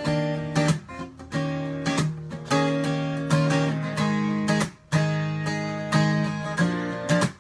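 Acoustic guitar strumming chords: the instrumental intro of a song, with regular strokes and ringing chords.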